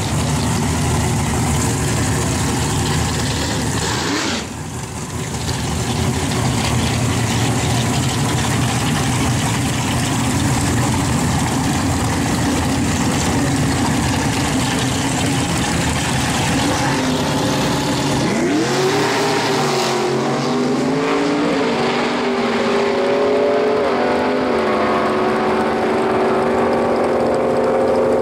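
Drag-racing car engines running hard at full throttle. About two-thirds of the way through, a single engine's note climbs in pitch in several steps as the car accelerates.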